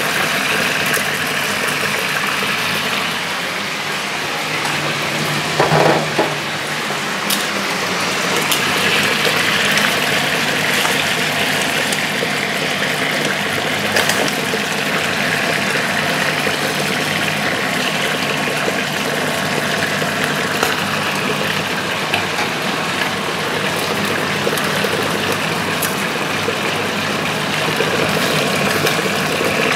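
Calf's liver frying in olive oil in a frying pan: a steady sizzle with a few sharp pops, and a short louder noise about six seconds in.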